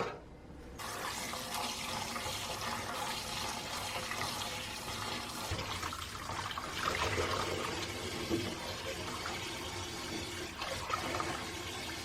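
Kitchen tap running steadily into a sink, with a few light knocks of things being handled under the water.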